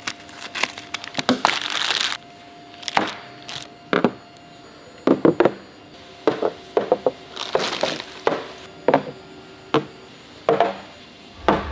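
A string of sharp clicks and knocks, about a dozen at irregular intervals, with a short stretch of rustling noise in the first two seconds.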